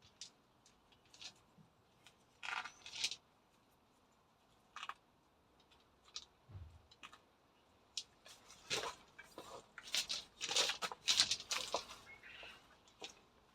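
Irregular rustling, tearing and snapping of plants being handled and pulled up by hand, in short scattered bursts, busiest near the end.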